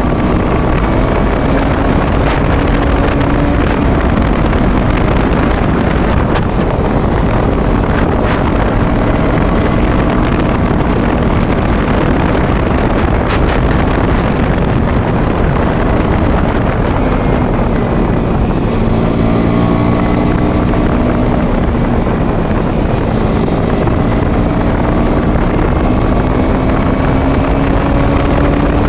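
Motorcycle engine running while riding, under heavy, steady wind noise on the microphone. The engine's pitch climbs slowly at the start and again in the second half, as it gains speed, and is mostly covered by the wind in between.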